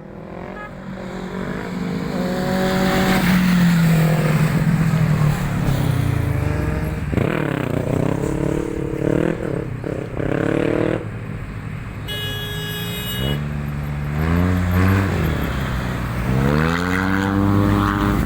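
Motorcycle engines revving and accelerating, their pitch rising and falling again and again, with a climbing rev near the end. A brief steady higher tone sounds about twelve seconds in.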